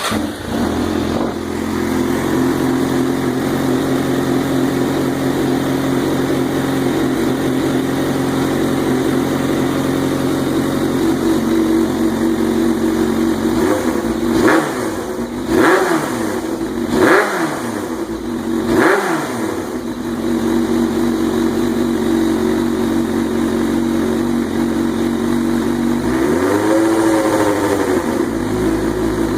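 2004 Suzuki GSX-R inline-four motorcycle engine idling through its exhaust with the insert put back in, which gives a higher-pitched note. About halfway through the throttle is blipped four times in quick succession, and there is one smaller rev near the end before it settles back to idle.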